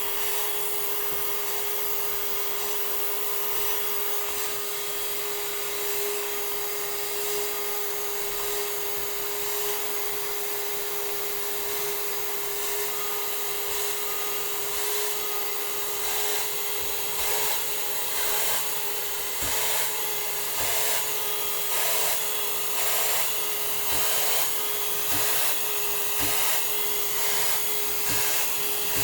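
Vacuum cleaner running with a steady whine, cleaning out a spinet piano's keybed around the small key felts. In the second half the sound swells and fades in an even rhythm, a little more than once a second.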